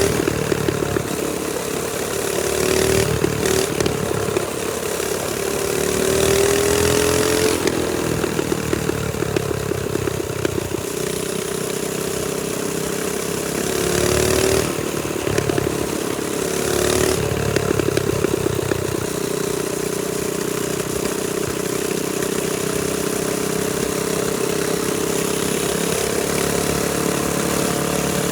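Trailmaster Storm 200 minibike's single-cylinder engine running while ridden, revving up and easing off several times, then holding a steady speed for the last third.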